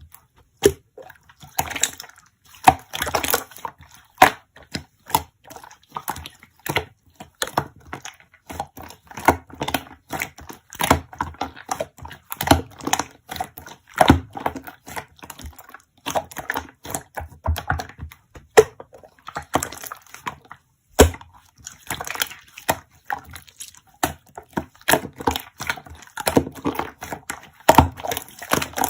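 Slime being squished, pressed and poked by hand, making a dense, irregular run of sticky clicks and pops.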